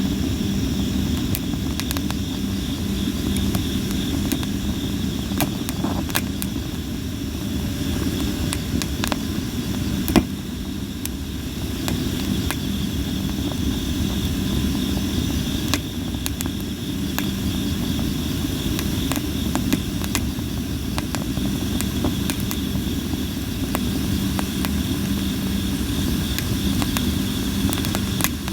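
Campfire of sawara cypress wood burning: a steady low rumble of flames with frequent sharp crackles and pops, one louder pop about ten seconds in.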